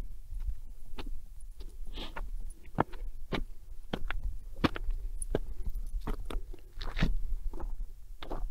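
Footsteps crunching and scraping on a gravelly trail going uphill, irregular steps about one or two a second, over a steady low rumble.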